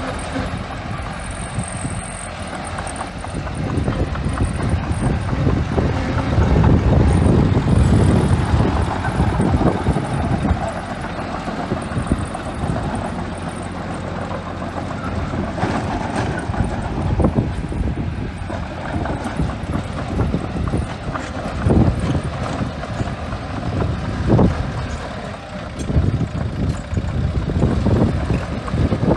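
Small bulldozer at work: its diesel engine runs steadily, swelling from about six to ten seconds in, with a few sharp knocks later on.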